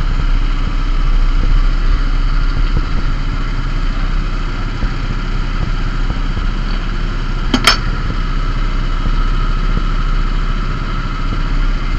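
A vehicle engine idling steadily, with one sharp click about seven and a half seconds in.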